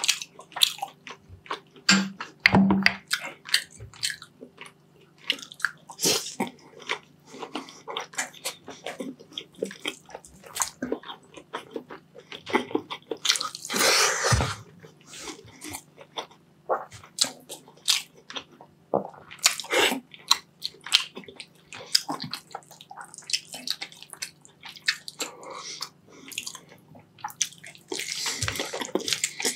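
Close-miked wet chewing and mouth sounds of eating braised beef short rib adobo and rice by hand: many quick smacking clicks, with a longer, louder wet noise about halfway through. Near the end comes a bite into the meat on a rib bone.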